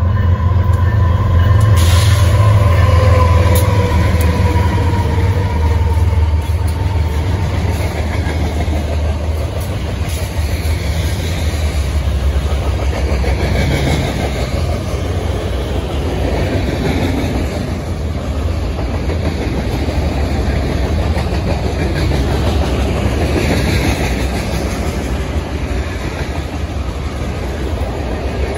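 Two BNSF diesel locomotives pass close by with a deep engine drone and a whine that falls in pitch as they go by. A long freight train's cars follow, rolling past with a steady rumble and rattle of wheels on rail.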